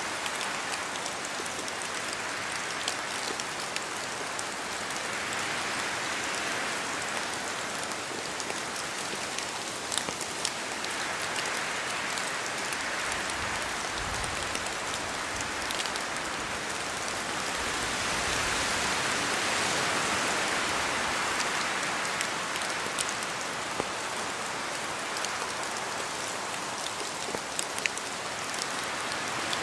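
Steady rain falling through forest trees, with many separate drops ticking close by. The rush swells and fades in slow waves, as gusts of wind shake the trees, and is loudest a little past halfway.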